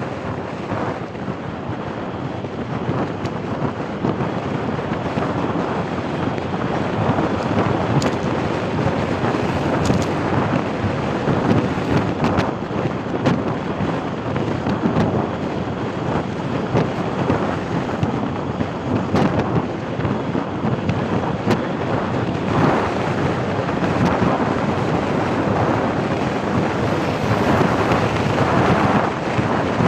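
Wind buffeting the microphone: a steady rush of noise with frequent short gusty thumps.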